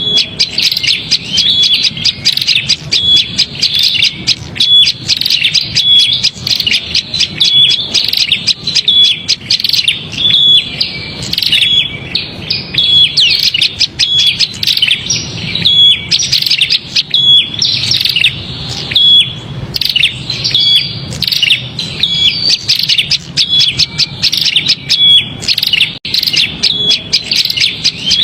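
Prinias (prenjak) giving agitated, rapid chirping calls, the 'prenjak ribut' lure call used to draw small birds. The chirping is dense and continuous, with a short steady note recurring about once a second.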